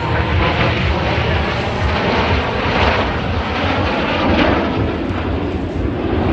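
Airplane flying by with loud, steady engine noise and a heavy low rumble.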